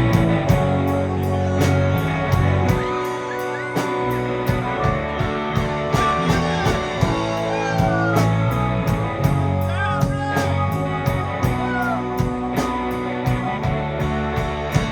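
Live rock band playing an instrumental intro: drum kit with a steady cymbal beat a little over two strokes a second, bass, electric guitar and keyboards, with short gliding lead notes over the top.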